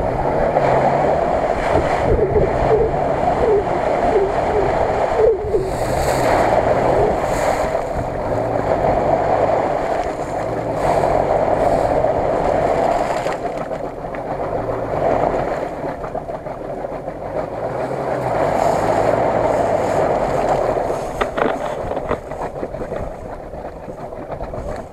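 Lada Niva (VAZ 2121) engine revving hard in repeated surges, rising and easing off every few seconds, as its tyres churn through bog mud and water. It grows quieter near the end.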